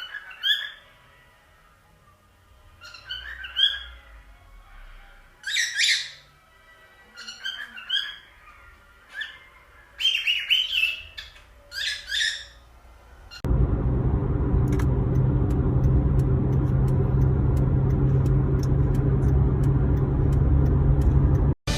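A cockatiel calling in short chirps and whistles, one every second or two, for about the first thirteen seconds. Then a steady, bass-heavy sound takes over abruptly and runs until just before the end.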